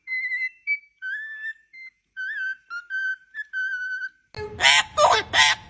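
Pet parrot whistling a tune in a run of clear, pure notes, some held and some with a slight warble. About four seconds in, a louder, rougher voice-like vocalisation takes over.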